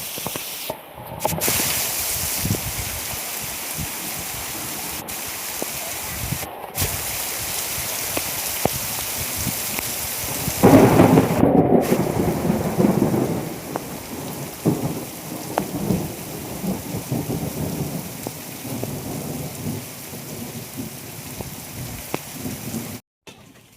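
Heavy rain falling with a steady hiss, with a louder rumbling surge about eleven seconds in that lasts two or three seconds. The sound cuts out briefly a few times.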